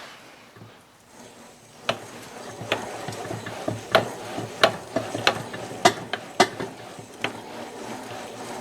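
Crankshaft of a KTM 300 two-stroke being spun by hand in its freshly assembled crankcases: a whirring rattle of the new bearings with a knock about every two-thirds of a second, starting about two seconds in. The knocking is the connecting rod tipping because it isn't held straight, not a fault.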